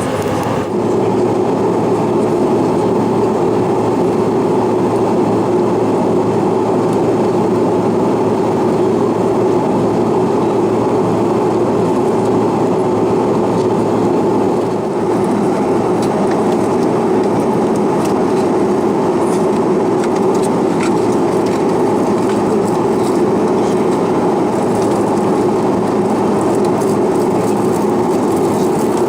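Steady cabin noise inside a CRJ-700 airliner: the hum of its two rear-mounted GE CF34 turbofans mixed with the rush of airflow, heard from a passenger seat.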